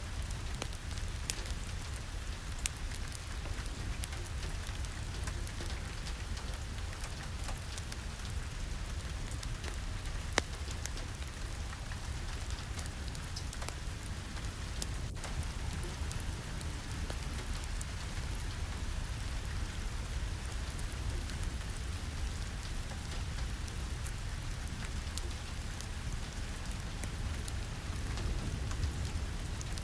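Steady rain falling, with a deep low rumble underneath and scattered sharp ticks throughout, the loudest about ten seconds in.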